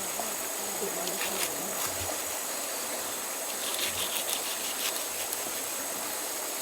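Insects droning steadily in a high-pitched chorus, with a faint voice in the first couple of seconds and a few light clicks.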